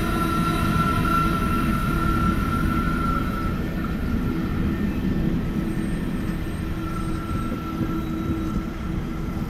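Low rumble of a heavy-haul iron ore train moving away down the line, slowly fading. A thin, steady high tone runs over it, drops out about three seconds in and comes back near the end.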